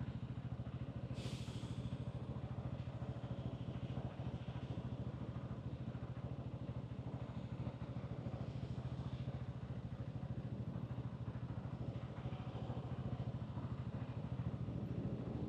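Hansom Bike Benet 125cc motorcycle engine and exhaust running steadily at an even pitch, with a brief hiss about a second in.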